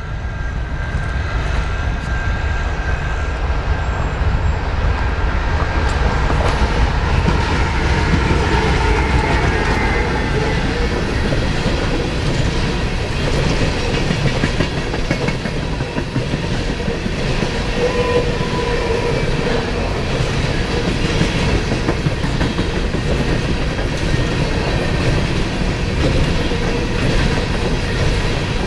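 A CP coal train passing at close range. A deep diesel rumble, heaviest in the first several seconds, is the GE ES44AC locomotive going by. After that comes the steady clickety-clack of coal cars rolling past, with faint wheel-squeal tones over it.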